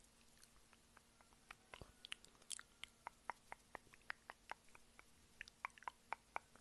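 Close-miked chewing and mouth sounds: an irregular run of small, sharp, wet clicks and smacks, several a second.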